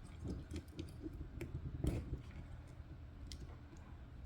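Scattered light clicks and taps of small parts being handled, with one slightly louder knock about two seconds in.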